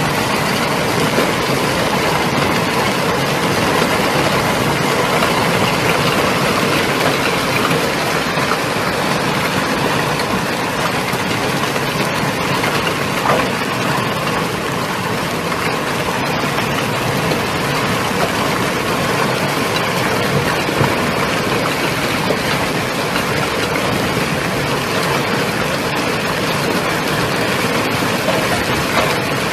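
Heavy hailstorm: a dense, steady roar of hailstones pelting down, with a few sharper knocks among it.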